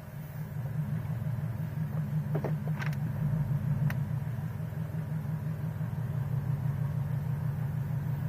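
Scion FR-S's 2.0-litre flat-four engine running at a steady low speed, heard from inside the cabin as an even, pulsing hum. A few light clicks come between about two and four seconds in.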